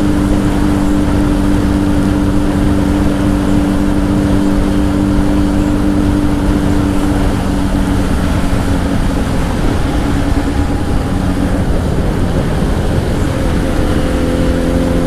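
Honda CBR1000 inline-four with a Two Brothers aftermarket exhaust running at steady riding revs, heard through a helmet mic over a constant rush of wind noise. The engine note holds steady, wavers through the middle, and settles at a slightly different pitch near the end.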